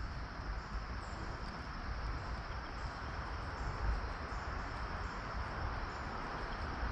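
Steady outdoor background hiss with a low rumble, and faint insect chirring high above it.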